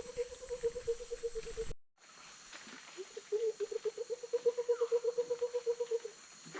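Rainforest ambience: an animal's low, rapid trill, about ten pulses a second, sounds twice for two to three seconds each time. Under it runs a steady high-pitched drone of insects, and the sound cuts out briefly about two seconds in.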